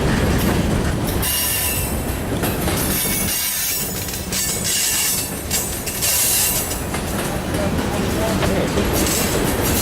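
Freight train cars rolling past, wheels clicking over the rail joints, with high-pitched wheel squeal coming and going.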